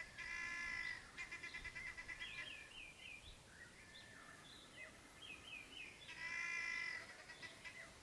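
Wild birds calling: a long drawn-out call comes at the start and again about six seconds in, the first trailing into a quick run of clipped notes. Short chirping notes fall in between.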